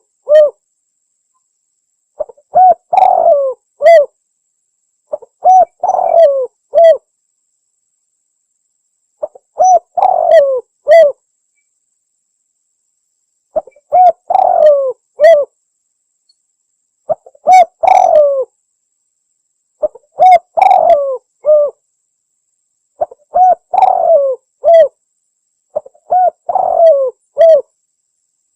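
Spotted dove (tekukur) cooing: a phrase of several falling coos, repeated about every three to four seconds with silence between.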